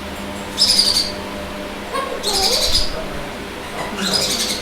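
A caged bird calling: three short, high, rasping chirps, evenly spaced about a second and a half apart.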